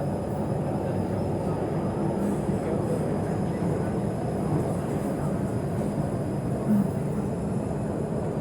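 Steady running noise heard inside an MTR East Rail Line R-train (Hyundai Rotem electric multiple unit) travelling at speed between stations: a constant low rumble of wheels on rails and traction equipment, with a faint steady high whine. A brief low knock comes about two-thirds of the way in.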